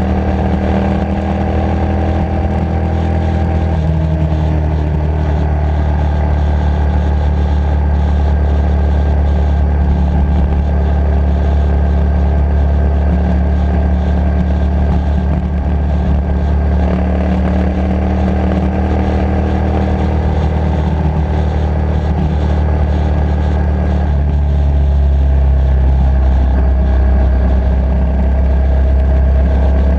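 Motorcycle engine running steadily under way. Its note steps up and down a few times as the ride goes on.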